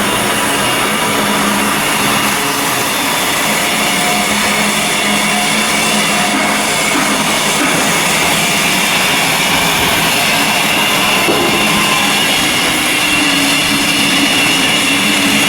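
Loud, steady noise of heavy machinery running, with a few faint steady whining tones in it.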